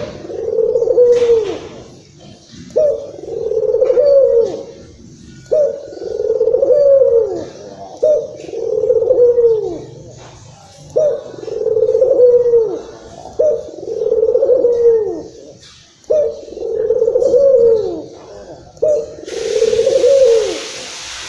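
A puter (Barbary or ringneck dove) cooing over and over, each phrase a short note followed by a longer falling coo, about every two and a half to three seconds. The calls are the excited cooing used as a lure to set off another puter dove.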